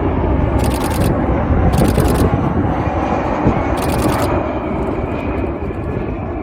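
Loud jet engine noise from a military jet landing, a dense steady roar. Three short bursts of rapid camera shutter clicks sound over it, about a second apart at first and then after two seconds.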